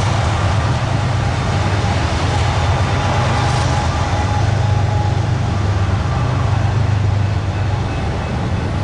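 BNSF freight train, a steady low rumble with rail noise and faint thin ringing tones above it.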